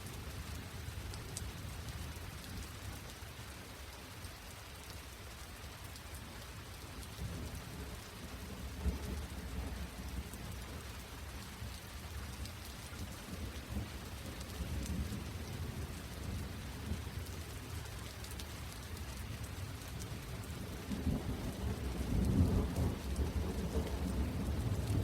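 Steady rain falling, with a low rumble underneath that swells louder near the end.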